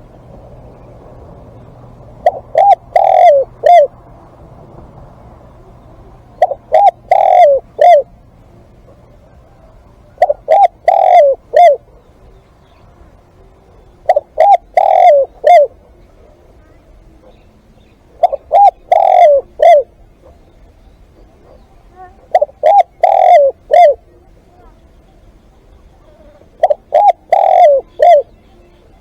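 Spotted dove cooing: seven phrases, one about every four seconds, each a quick run of four or five low cooing notes.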